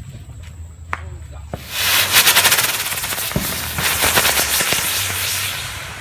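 A ground-spinner 'twister' firework going off: after a sharp click, about a second and a half in it bursts into a loud, rapid crackling hiss that slowly dies down toward the end.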